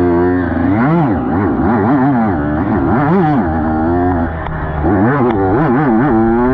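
Dirt bike engine being ridden, its pitch rising and falling again and again as the throttle is opened and closed, several quick swells within a few seconds.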